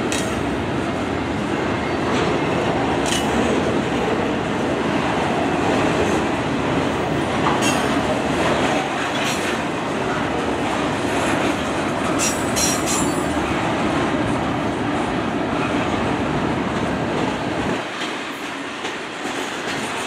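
Double-stack intermodal container cars of a freight train rolling past over a bridge: a steady rumble and clatter of steel wheels on rail. Short high-pitched wheel squeals cut through now and then, with a cluster about twelve seconds in, and the low rumble thins out near the end.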